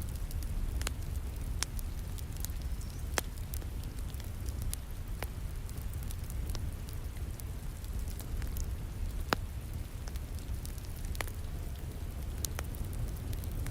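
Crackling fireplace fire with scattered sharp pops, the loudest about nine seconds in, over a steady low rumble and the patter of falling rain.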